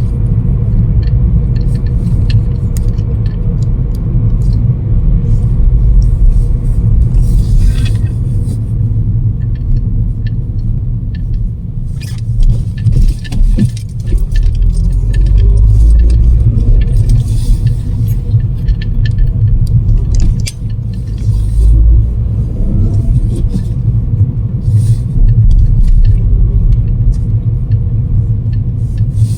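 Strong storm wind buffeting the microphone: a loud, low rumble that swells and eases in gusts, with brief hissy rushes of wind noise.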